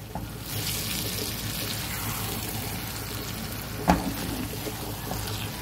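Eggplant and potato pieces sizzling steadily in an oiled frying pan, with one sharp knock of the spatula against the pan about four seconds in.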